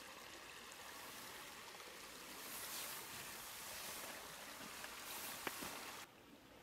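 Faint, steady rushing of a river flowing over its stony bed, with one sharp click about five and a half seconds in. The rushing drops away abruptly near the end.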